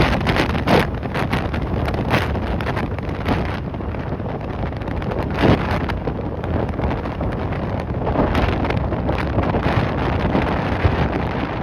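Strong, gusty wind buffeting the microphone, a loud rumbling rush that swells and eases with the gusts.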